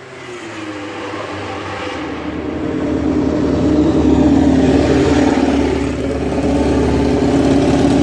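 Honda RC213V MotoGP bike's V4 engine running at high revs. It grows louder over the first four seconds, then stays loud and steady in pitch.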